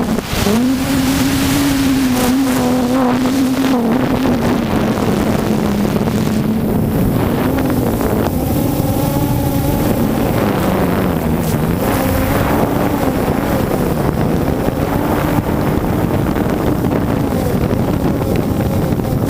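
3DR Solo quadcopter's motors and propellers humming, their pitch wavering and dipping repeatedly as the drone fights strong gusts, under heavy wind buffeting on the microphone.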